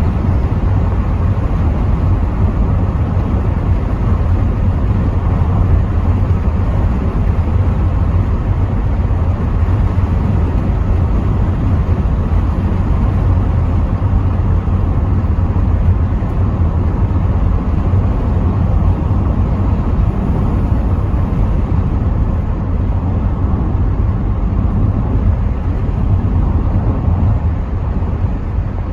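Rover 75 V6 Tourer estate driving along, heard from inside the car: a steady low drone of engine and road noise with no gear changes or other distinct events.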